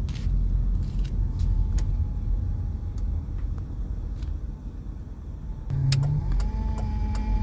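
Car driving: a steady low road and engine rumble with a few light clicks and rattles, and a brief low hum about six seconds in.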